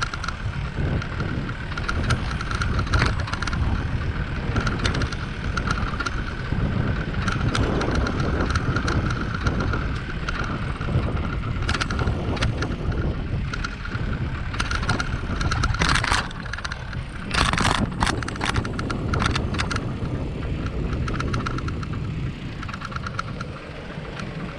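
Riding noise from a bicycle-mounted action camera: a steady low rumble of wind and road on the microphone, with scattered rattles and clicks from the bicycle, thickest about two-thirds of the way through.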